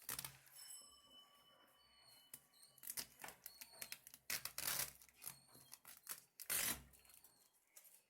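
Handling and opening delivery packaging: short rustling, scraping and tearing noises in scattered bursts, the loudest a little after the middle and again near the end.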